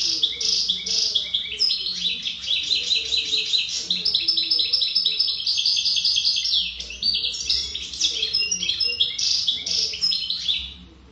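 European goldfinch singing a long, unbroken song of bright twittering phrases, with a fast run of evenly repeated notes through the middle, stopping shortly before the end.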